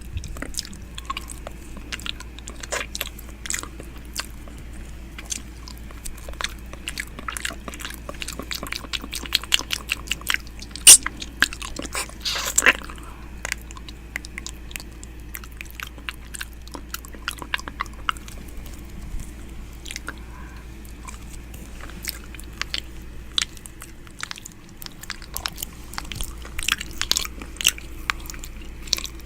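ASMR mouth sounds close to a microphone's ear: irregular wet clicks, smacks and nibbling noises, with a louder smack about eleven seconds in, over a steady low hum.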